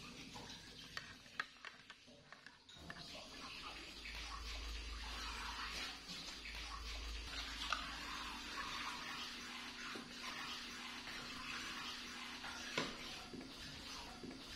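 A few light clicks of a plastic spoon against a yogurt cup. About three seconds in, a steady rushing hiss of running water sets in, like a tap left running, with small knocks over it.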